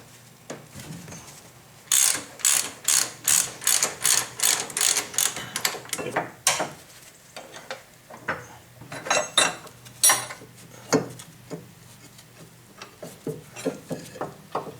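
Ratchet wrench clicking in an even run of about three clicks a second for several seconds, then a few scattered clicks and knocks, as fasteners are worked loose on the planer.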